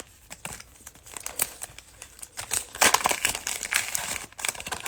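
Cellophane wrapper of a trading-card cello pack crinkling and tearing as the pack is opened by hand, with a dense run of crackles in the second half.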